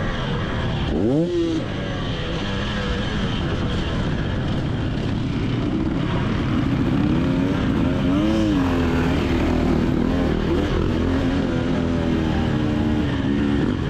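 Two-stroke motocross bike engine heard from on board, its pitch rising and falling with the throttle, with a steep climb about a second in.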